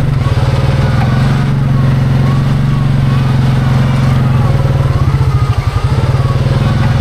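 Off-road vehicle engine running hard and steady under load as the stuck buggy is pulled out of the mud, with a brief dip in level about five and a half seconds in.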